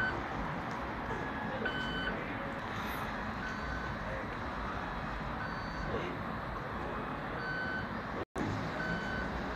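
Electric commuter train running along the platform tracks, a steady rumble, with a short high electronic beep repeating every one and a half to two seconds.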